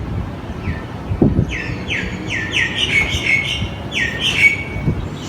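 Small birds chirping: a quick run of short, downward-sliding chirps, several overlapping, with a few low thuds underneath.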